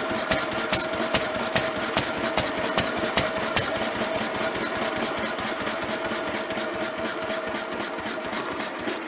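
Lister stationary engine running just after a cold start, with a steady drone and a regular knock about two to three times a second that is sharpest in the first few seconds, then fainter.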